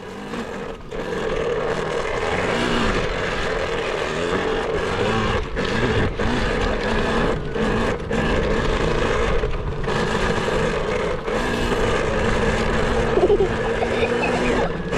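KTM dirt bike engine running under throttle, with several brief drops in revs as the throttle is eased and reopened.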